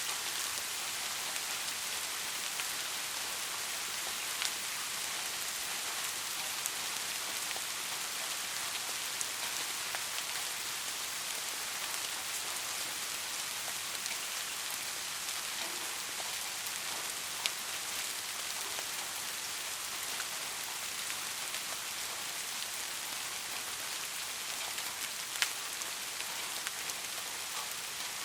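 Steady rain falling, an even high hiss with a few louder single drops ticking out now and then.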